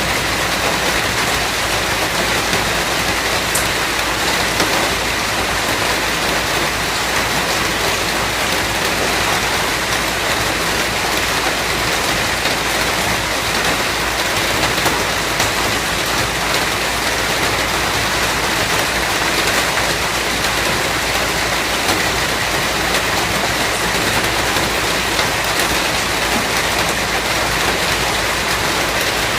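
Steady, dense rainfall: an even wash of rain with fine scattered drops, no pauses or changes.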